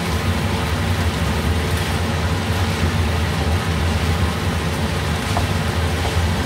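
Diced vegetables and ground meat sizzling in a frying pan while being stirred with a wooden spatula, over a steady low hum.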